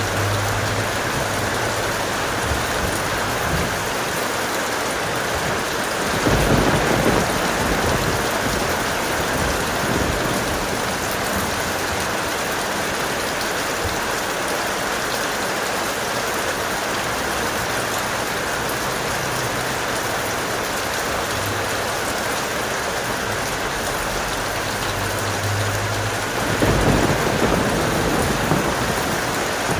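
Steady heavy rain, with two rolls of thunder: one about six seconds in and one near the end.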